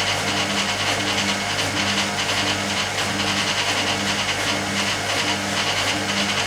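Hoover Keymatic A3112 washing machine draining after its first rinse: a steady motor hum with a tone that swells and fades about every three-quarters of a second, over a watery hiss.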